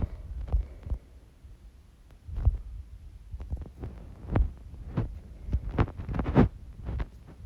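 Irregular hard knocks and low thumps, a dozen or so, from mini hockey sticks and a puck being handled during a knee hockey game. A short quiet stretch comes about a second in, then the knocks pick up and come several a second.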